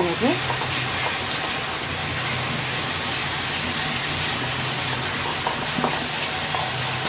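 Onion and ground-spice masala sizzling steadily in oil in a wok as it is stirred with a wooden spatula, with a few light clicks of the spatula about six seconds in. A low steady hum runs underneath.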